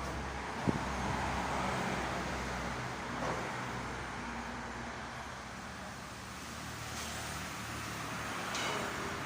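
A motor vehicle's engine running steadily under an even noise, with one sharp click a little under a second in.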